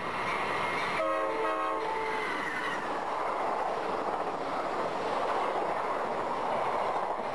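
Amtrak passenger train passing close by at speed, a steady rush of wheels and air, with a horn blast of about a second, starting about a second in.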